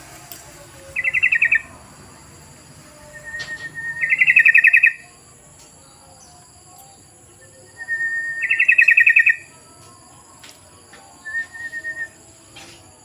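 Yellow-vented bulbul (trucukan) singing: four loud, bubbly, chattering phrases, each opening with a short even note, separated by pauses of a few seconds. A steady high-pitched whine runs underneath.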